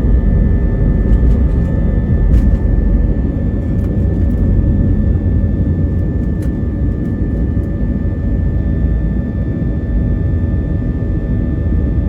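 Airbus A320-232 with IAE V2500 engines heard from inside the cabin under power on departure: a loud, steady rumble of engines and airflow, with several steady whining tones over it.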